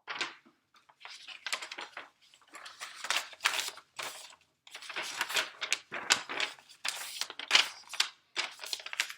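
Irregular rustling, scraping and clicking of paper and markers being handled, in many short uneven bursts.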